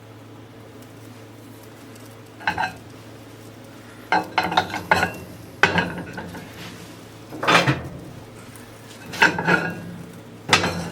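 Kitchen dishes and utensils clattering: a scattered series of knocks and clinks, some in quick clusters, over a steady low hum.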